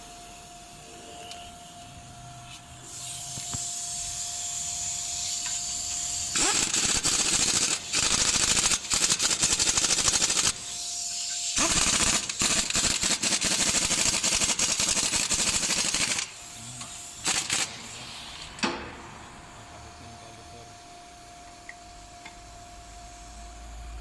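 Pneumatic impact wrench running in several loud, rattling bursts with short breaks between them, after a rising hiss of air, then a few sharp clicks.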